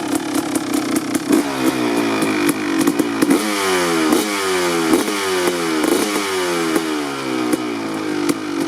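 A 2003 Kawasaki KX250's single-cylinder two-stroke engine with an FMF Gnarly expansion pipe and shorty silencer, warming up after a cold start. About a second in, the throttle is blipped over and over, roughly once a second. Each rev jumps up and sinks back toward idle, and near the end the engine settles back to a steady idle.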